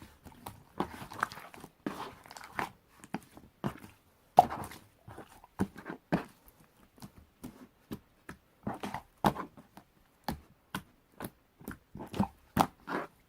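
Marbled slime being pressed and squished by hand, giving a string of irregular short clicks and pops as air pockets burst, a few louder ones about four seconds in and near the end.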